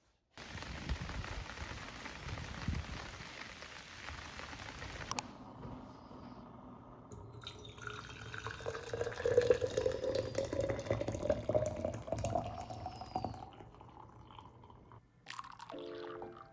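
Water running in a steady rush for about five seconds, then stopping abruptly. After a short pause, liquid pours into a container, its pitch rising steadily as the container fills.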